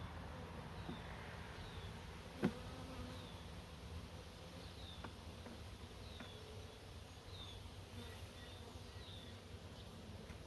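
Honeybees buzzing in a steady low hum, with a single sharp knock about two and a half seconds in. A faint short high chirp repeats about once a second over the hum.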